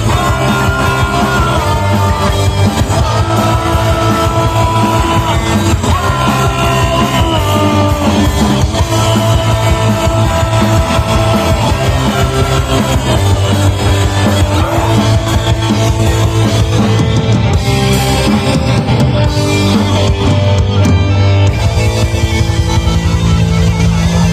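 Metal band playing live and loud: distorted guitars and bass over continuous drumming.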